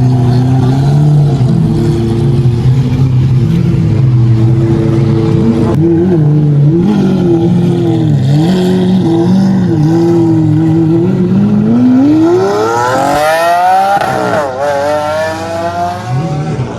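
A performance car's engine running at low revs, its note rising and falling a little. About twelve seconds in it accelerates hard: the pitch climbs steeply, drops at an upshift, and climbs again.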